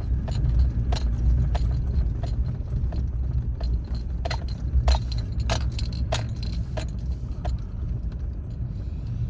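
Low steady rumble of a truck driving slowly, heard inside the cab, with scattered light clicks and rattles at irregular intervals.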